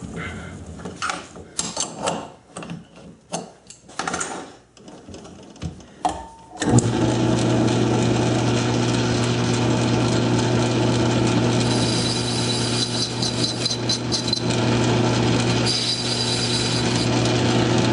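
Scattered knocks and clicks of metal parts being handled, then about seven seconds in a South Bend lathe starts up and runs steadily, its motor giving a low even hum. Later a thin high tone comes and goes twice as a tool is held to the spinning workpiece to break its edge.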